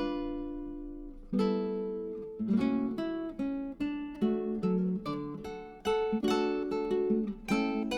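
Background music: acoustic guitar playing plucked chords and single notes, each ringing out and fading.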